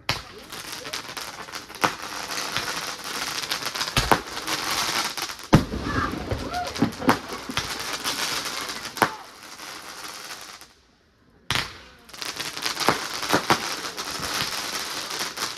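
Aerial fireworks going off: a dense crackle with many sharp bangs, one heavier low boom about five and a half seconds in. The noise drops out for under a second around eleven seconds in, then starts again.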